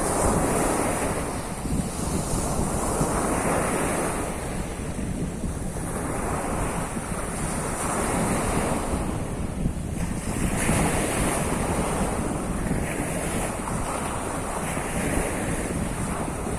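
Surf of the Sea of Azov washing onto the shore, a wave swelling and breaking every two to three seconds, with wind buffeting the microphone as a steady low rumble.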